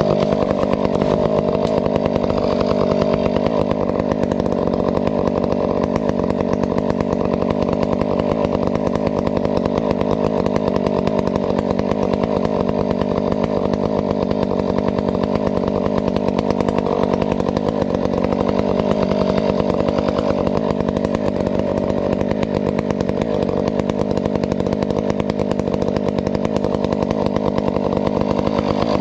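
Husqvarna 372XP two-stroke chainsaw running steadily at high revs for the whole stretch, its pitch sagging slightly now and then under load.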